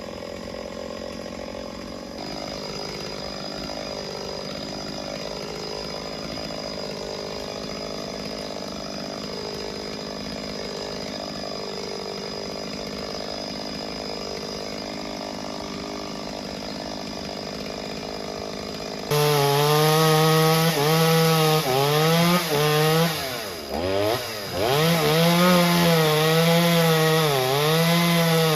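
Chainsaw cutting into a tree trunk. At first it runs at moderate level with a wavering pitch; about two-thirds of the way in it suddenly gets loud, and its pitch sags and recovers again and again as the chain loads up in the cut, dropping deeply once.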